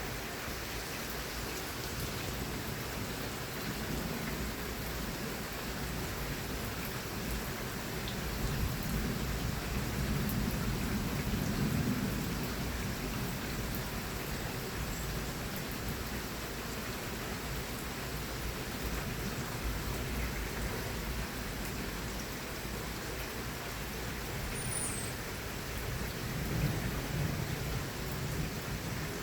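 Thunderstorm: steady heavy rain falling, with low rolls of thunder that swell up about eight to thirteen seconds in and again near the end.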